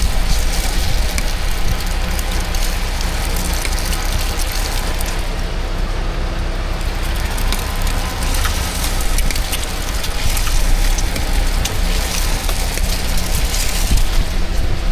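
Steady street background noise: a low rumble under a dense crackling hiss.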